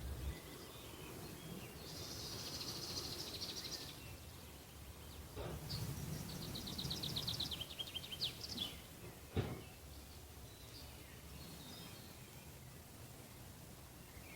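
Songbirds singing over a low steady background noise: a high trill of rapid notes about two seconds in, then a second rapid trill falling in pitch around the middle, and a single sharp click a little after that.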